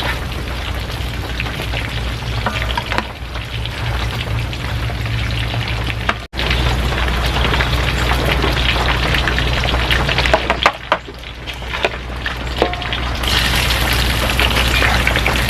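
Food frying in a pan: a steady sizzling, crackling hiss, cut off for an instant about six seconds in.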